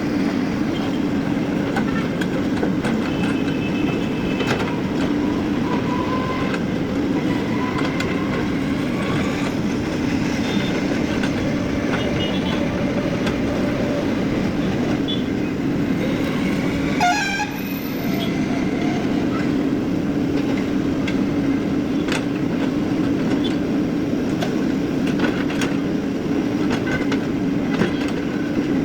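JCB excavator's diesel engine running steadily under work, with short squeaks and scattered clanks from the machine's moving parts.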